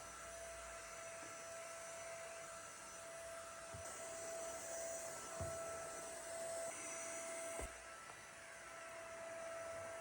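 Steady quiet mechanical hum with a faint steady tone, and a few soft knocks about four, five and a half, and near eight seconds in.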